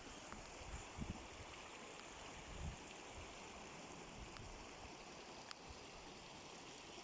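Faint steady outdoor ambience, an even rushing hiss, with a few soft low bumps about a second in and again near the three-second mark.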